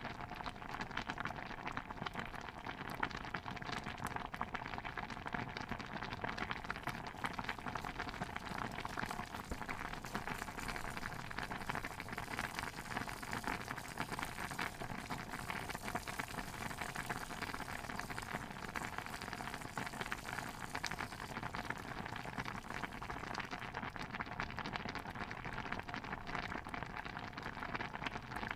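Pot of stew bubbling at a steady simmer: a dense, unbroken stream of small pops and gurgles.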